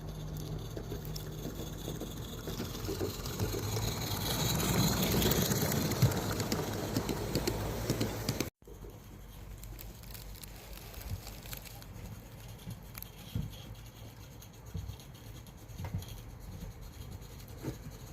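Small live-steam garden-railway locomotive running, its rapid exhaust beats and steam hiss growing louder as it comes close, then after an abrupt cut a quieter stretch with light clicks.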